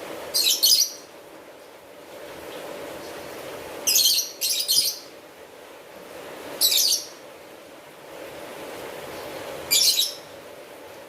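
Steady rain with a bird calling over it in short, high chattering bursts, five of them spread across about ten seconds, the middle two close together.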